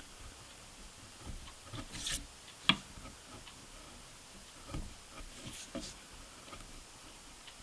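Sharp chisel paring the excess of glued-in walnut dot inlays flush with a guitar fretboard: a few short, soft scraping cuts, with one sharp click about two and a half seconds in.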